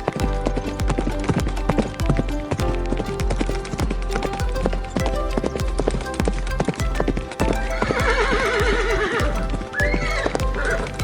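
Horse hooves clip-clopping in a quick, regular beat, with a horse whinnying in a long wavering call about eight seconds in and a short call near the end, over background music.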